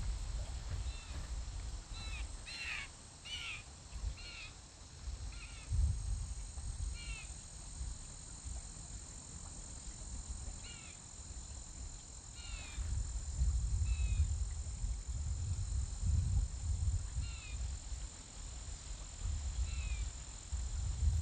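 Wild birds calling in short repeated notes: a quick run of calls a few seconds in, then single calls scattered through the rest, over a low rumble on the microphone.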